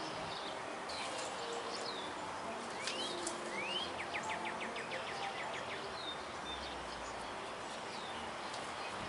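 Birds chirping over a steady outdoor background hiss, with a couple of quick rising chirps about three seconds in, followed by a fast trill of about ten notes.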